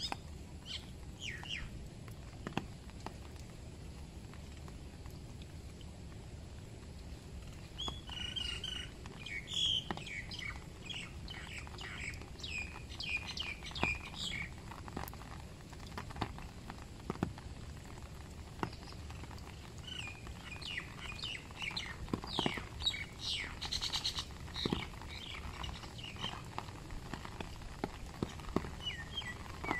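Birds chirping in quick clusters of short calls, busiest about a quarter of the way in and again past the middle, over steady rain with scattered drips.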